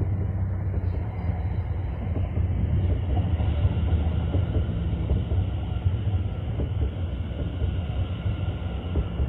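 Greater Anglia Class 720 Aventra electric multiple unit running past close by: a steady heavy rumble of wheels on rail, with a steady high whine above it that grows a little louder about three seconds in.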